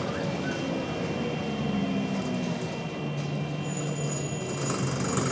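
Wright Solar single-decker bus heard from inside with its engine running, over engine and road noise. A steady high-pitched buzz goes on throughout, which the bus makes whenever its engine is on.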